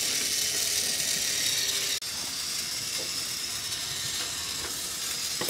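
Food sizzling in a hot pan, a steady hiss, with a brief break about two seconds in.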